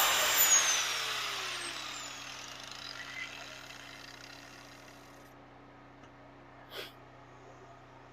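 A power grinder winds down after being switched off, its whine falling in pitch and fading out over about five seconds. A steady faint hum remains, with a short tap about seven seconds in.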